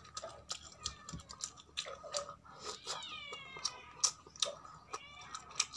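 Close-up mouth noises of eating: chewing and lip-smacking with quick wet clicks as a man eats fried fish and rice with his hands. About three seconds in, a short high-pitched cry glides downward.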